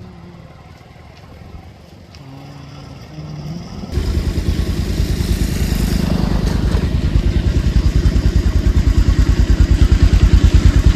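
An engine running close by, a rapid, even low thudding that starts abruptly about four seconds in and grows slightly louder.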